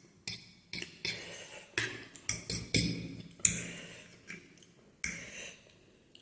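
Close-miked eating sounds of spicy instant noodles: a string of sharp clicks and short wet smacks, about a dozen, thinning out near the end.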